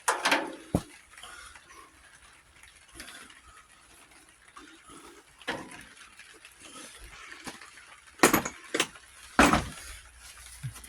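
Scattered knocks and clanks of metal parts and hand tools being handled while a tractor is taken apart, with the loudest two about eight and nine and a half seconds in.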